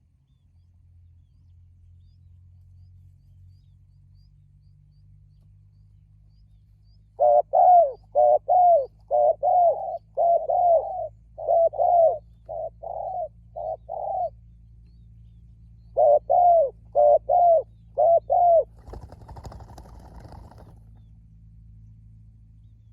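Spotted dove cooing: a rapid series of short, arched coos, a pause of about two seconds, then a shorter series. A brief burst of noise follows.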